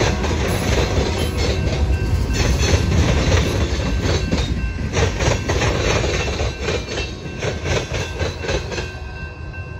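Freight train cars rolling past over a grade crossing: wheels rumbling and clacking over the rail joints, fading as the end of the train moves off. The crossing bell rings on through it and stands out near the end.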